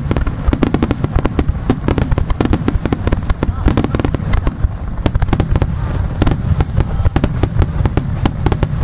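Starmine fireworks barrage: shells bursting in rapid succession, many sharp bangs a second over a continuous deep rumble.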